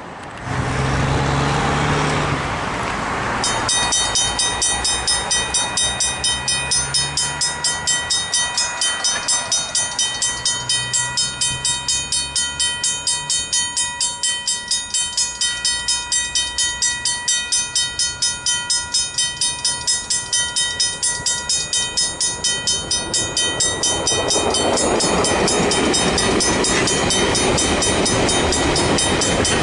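Griswold mechanical level-crossing bells ringing with an even, rapid stroke, about two strikes a second, starting a few seconds in. Near the end a train passing through the crossing rises over them with a broad rumble.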